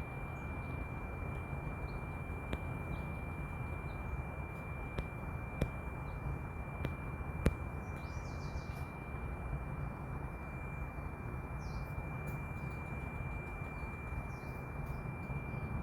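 Outdoor trail ambience: a steady low rumbling noise with a constant thin high tone over it, a few sharp clicks around the middle, and faint bird chirps now and then in the second half.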